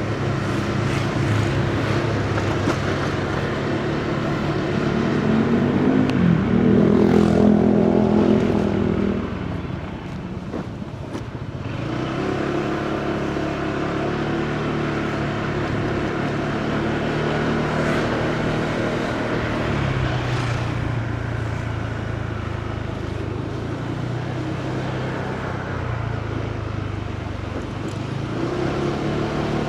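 Motorcycle engine running while riding in city traffic over road and wind noise, its pitch rising and falling as it speeds up and slows. Loudest about six to nine seconds in, with a rising note.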